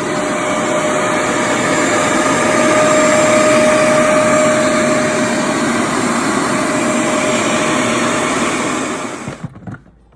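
Hoover Max Extract 60 Pressure Pro carpet deep cleaner running, its motor making a steady, loud whooshing noise with a constant whine, then shutting off about nine and a half seconds in, followed by a few knocks.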